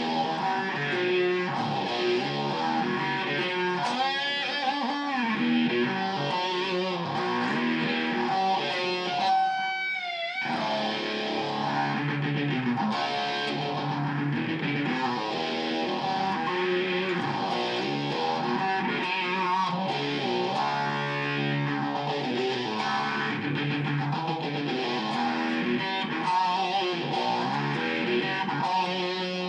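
Electric guitar riffs and chords played through a DIY Laserwolf effects pedal, which combines phaser, delay and overdrive in one unit. A wavering high note sounds about ten seconds in.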